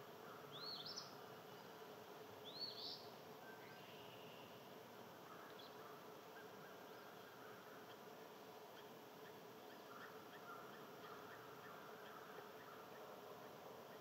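Faint outdoor ambience with a steady low hum, and a small bird chirping twice in the first three seconds, each chirp a quick rise and fall in pitch.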